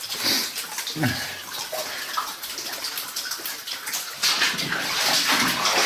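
Water splashing and sloshing underfoot in a flooded mine tunnel, louder from about four seconds in.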